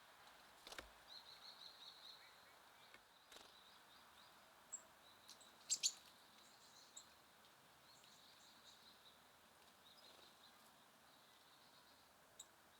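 Small songbirds at a feeder chirping faintly in quick high notes, with a few sharp taps; the loudest is a double tap about six seconds in.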